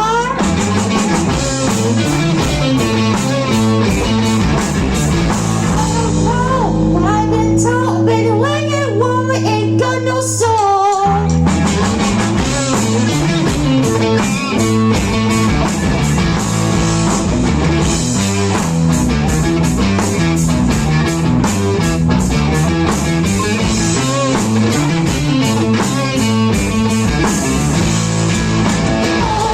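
Rock band playing live: electric guitar, bass guitar and drum kit with singing. From about six seconds in the drums and bass drop back, leaving a held chord under the vocal line, and the full band comes back in about eleven seconds in.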